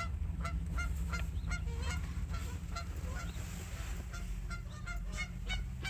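Geese honking during a fight: short, repeated calls, several a second, over a steady low rumble.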